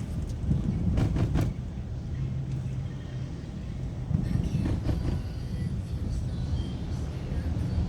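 Street traffic: motor vehicle engines and road noise, a dense low rumble with a steady low hum about two to three seconds in.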